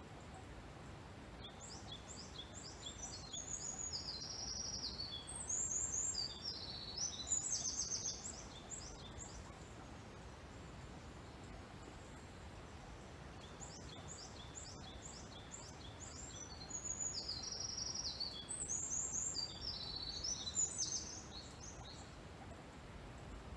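A songbird sings two long, rapid, high-pitched songs of many quick notes, each lasting about seven seconds, with a pause between them. Under it runs a steady hiss of water flowing at a shrine's hand-washing basin.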